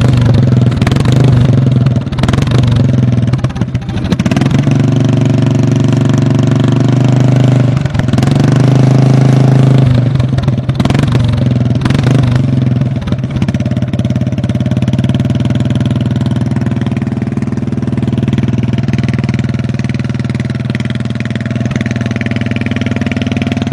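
Lawn tractor engine running, its speed wavering unevenly for the first half, then settling to a steady run that is a little quieter; the engine has a fuel problem.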